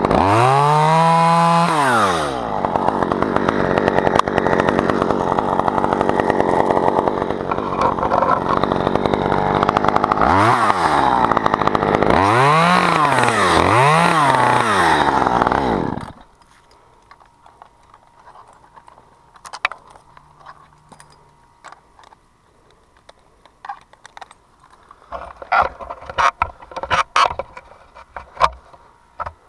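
Chainsaw running under load while cutting wood, its engine pitch dipping and climbing again several times, then cutting off suddenly about halfway through. Scattered light clicks and knocks follow.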